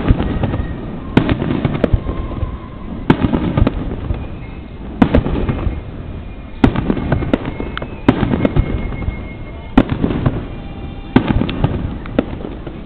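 Aerial fireworks shells bursting overhead, a sharp bang every couple of seconds, each followed by a rolling rumble.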